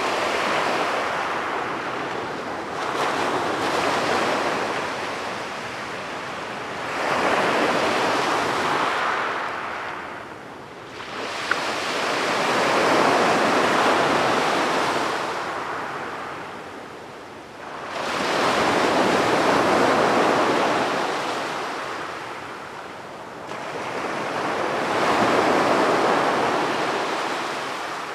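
Sea waves breaking and washing up the beach in slow surges, each swelling and fading over several seconds, about five in all. There is a single brief click near the middle.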